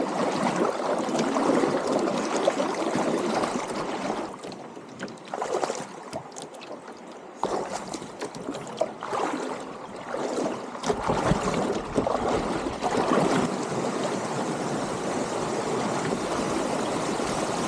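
Shallow stream water rushing and splashing around a canoe being waded upstream through knee-deep water. The sound changes abruptly twice, about seven and eleven seconds in.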